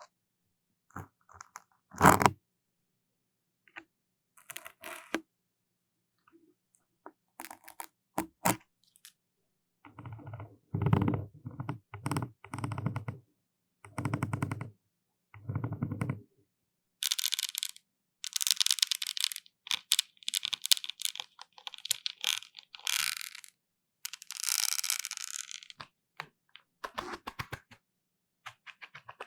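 Close-up ASMR trigger sounds right at the microphone: scattered clicks and crackles, then a series of muffled, bassy rubbing strokes, then several bright, scratchy strokes about a second long each.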